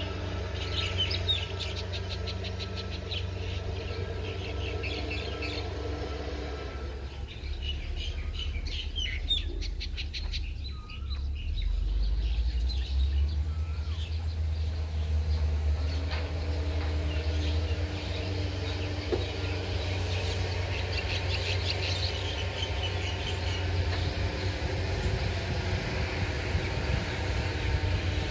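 Small birds chirping and twittering over a steady low engine hum. The hum grows louder about twelve seconds in.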